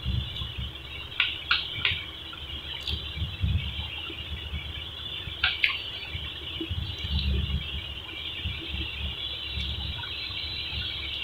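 Close-miked chewing of boiled egg, wet mouth sounds in irregular clumps, with a few sharp smacking clicks about a second in and again near the middle.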